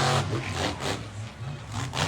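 Monster truck's supercharged V8 engine revving in short throttle blips, the pitch rising and falling several times with a lull about halfway through.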